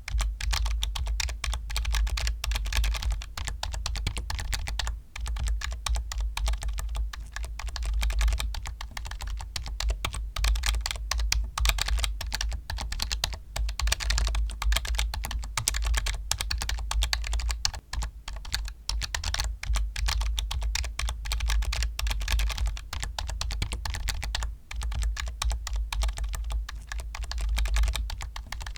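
Fast, continuous typing on a computer keyboard: a dense stream of key clicks with a deep thud beneath them, broken only by a few brief pauses.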